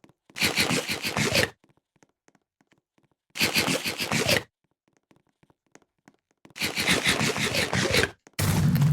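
Game sound effects: three crunching bursts, each about a second long with silence between them, then a low droning tone starting near the end.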